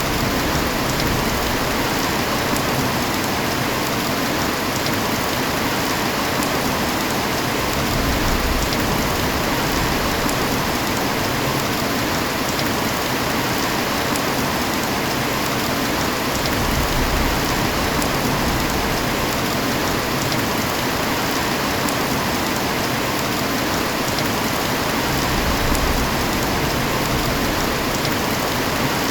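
Heavy rain falling steadily, an even hiss of drops on surfaces with no let-up.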